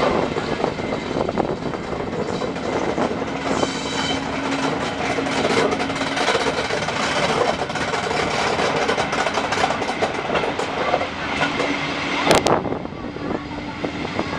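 Historic passenger train running along the line, heard from an open carriage window: wheels clattering over the rails amid dense rushing noise. A steady low hum comes in for a few seconds twice, and a single sharp knock sounds about twelve seconds in.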